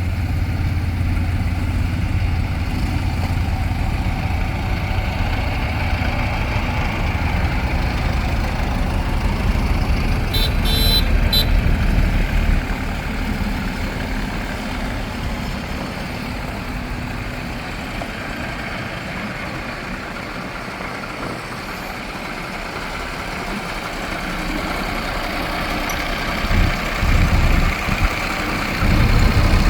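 Tractor diesel engines running, a steady rumble that is louder at first, eases off midway and rises again near the end with uneven surges. A brief high-pitched sound cuts in about eleven seconds in.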